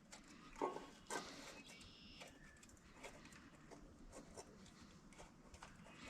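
Near silence, with a few faint clicks and light knocks; the clearest come about half a second and a second in.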